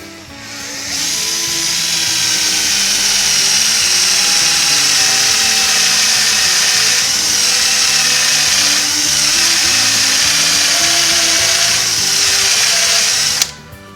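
Electric drill with a 1/4-inch bit boring a pilot hole into the centre of a steel frame rivet head, running steadily and high-pitched. It spins up about a second in and stops abruptly near the end. Background guitar music plays underneath.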